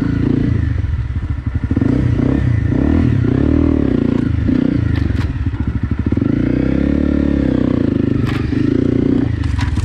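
Honda CRF250 Rally's single-cylinder four-stroke engine being ridden, its pitch rising and falling repeatedly as the throttle is worked, with a few sharp clicks and clatter from the bike over the ground.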